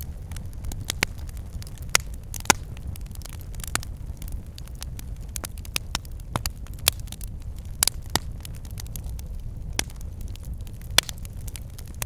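Campfire burning: irregular crackles and sharp pops of burning wood over a steady low rumble of the flames, with a few louder snaps.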